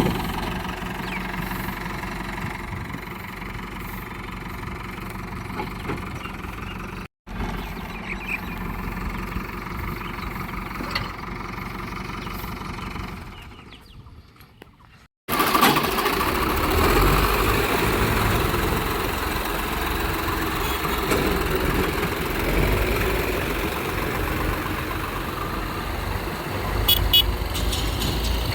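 Diesel engines of a backhoe loader and tractors running at a dirt-loading site. The sound is a steady rumble that drops out briefly about seven seconds in, fades away around the middle, then comes back louder and deeper.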